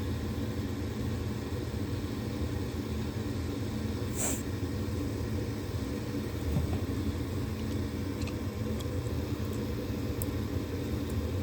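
Gas furnace's draft inducer motor running with a steady low hum during the pre-purge at the start of a heating cycle, before the igniter lights. A short hiss comes about four seconds in.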